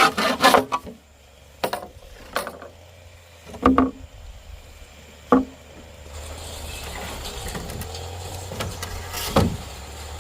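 Wood being sawn by hand, the quick back-and-forth strokes stopping within the first second, followed by several separate sharp wooden knocks spaced out over the next few seconds. A steady engine-like drone fades in from about six seconds in.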